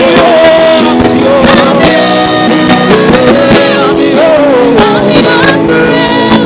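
Gospel worship song: a voice sings long, drawn-out notes that bend in pitch, over band backing with sustained chords and percussion hits.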